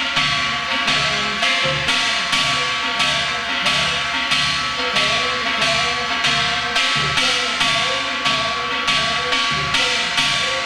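Korean gut percussion playing a fast jajinmori rhythm with the pulling (끌어치기) stroke, repeated without a break. Drum strokes fall at about three a second over a steady metallic ringing.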